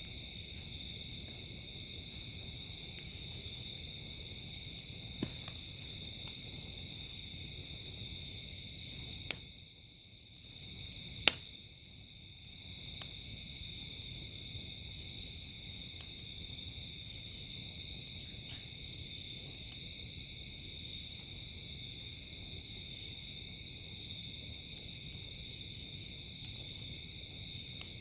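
Crickets and other night insects trilling steadily in a high chorus. A few sharp pops cut through, two of them loud, about nine and eleven seconds in.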